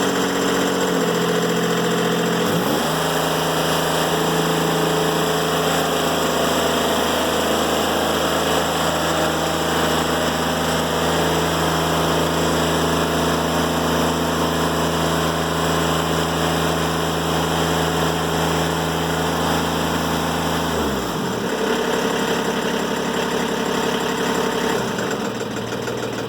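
Timberking 1400 band sawmill running steadily while cutting a black locust log, its engine note dipping briefly and recovering near the start and again about three-quarters of the way through.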